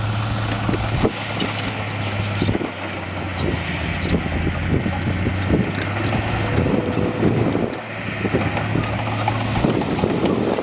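Komatsu D31A bulldozer's diesel engine running at working load, a steady low drone that dips briefly twice, with scattered clanks and knocks of metal and rock.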